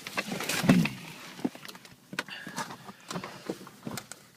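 A series of clicks and knocks from handling a car's controls in its cabin, one louder knock about a second in, likely the manual gear lever being worked through its gates while the car is cold.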